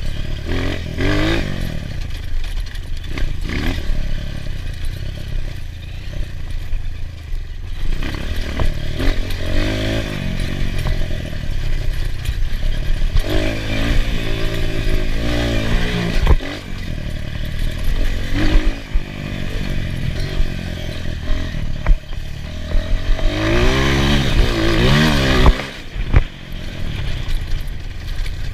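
Enduro motorcycle ridden over rough ground, its engine revving up and dropping back again and again, with a few sharp knocks along the way.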